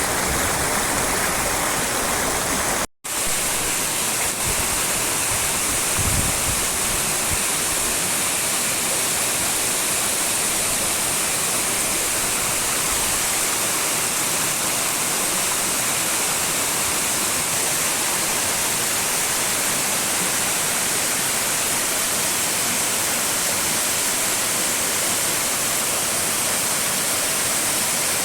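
Waterfall rushing steadily, an even hiss of falling water, broken by a short dropout about three seconds in.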